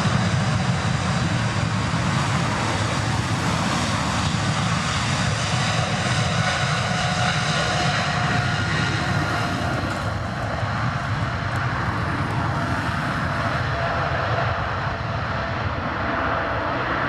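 Boeing 777-200F freighter's twin GE90 turbofans at take-off thrust: a loud, steady jet roar with a faint fan whine, easing slightly about halfway through.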